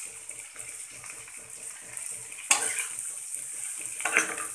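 Chopped okra frying in mustard oil in a frying pan, sizzling steadily. A steel spatula stirs and tosses the pieces in the second half, with a sudden louder burst about two and a half seconds in and another just after four seconds.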